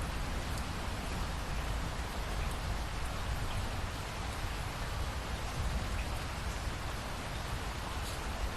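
Steady rainfall: an even hiss of rain with scattered drop ticks over a constant low rumble.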